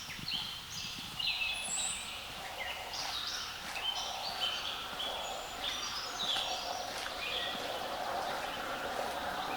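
Small songbirds chirping and singing in quick, short phrases of high notes, over a steady outdoor hiss.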